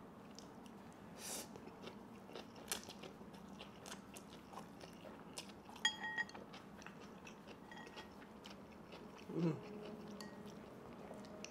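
A person chewing a mouthful of kimchi and spicy fire noodles with the mouth closed: soft, wet, crunchy mouth sounds in irregular small clicks. A light clink rings out about six seconds in, and a short hummed "mm" comes near the end.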